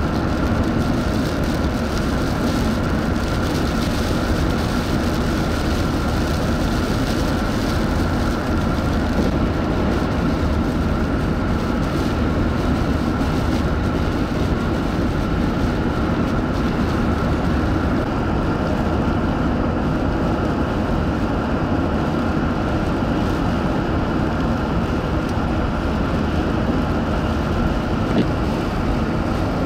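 Steady rumble and hiss of a vehicle driving through a blizzard: road and wind noise, with a faint steady whine running under it.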